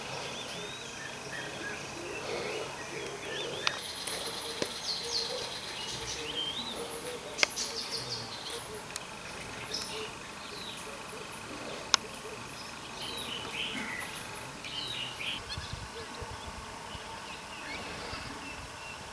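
Several wild birds chirping and whistling in short calls, over a steady high insect drone. Three sharp clicks stand out, about four, seven and twelve seconds in.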